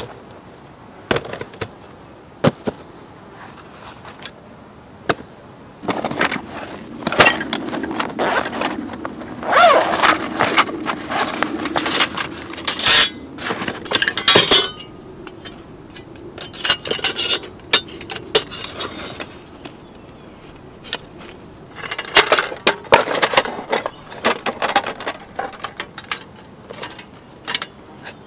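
Metal camp cooking gear being handled: scattered clinks and knocks, with stretches of rubbing and scraping between them.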